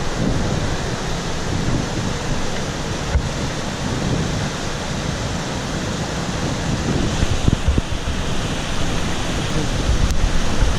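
Steady rushing of a monsoon-swollen mountain stream in flood, with a few brief low bumps on the microphone.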